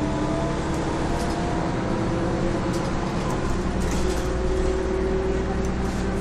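Mercedes-Benz OM447hA horizontal straight-six diesel of a Jelcz M122MB city bus running under load, heard from inside the bus, its note rising slowly as the bus gathers speed. About four seconds in the note drops to a new, lower pitch, typical of the ZF 4HP590 automatic gearbox changing up. Light rattles and clicks sound through it.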